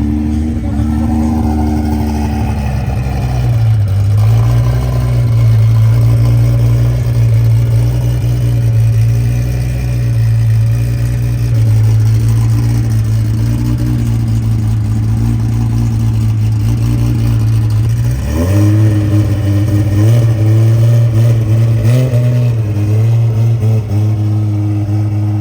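A car engine running at steady, fairly high revs, dipping briefly a few times and then rising quickly in pitch about 18 seconds in before settling again.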